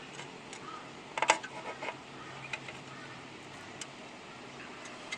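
A few light metallic clicks and clinks, loudest about a second in, from metal debris being handled in and around an engine's oil pan, over a faint steady hum. The metal fragments in the sump are a sign of internal engine damage, which the owner thinks probably explains a rod knock.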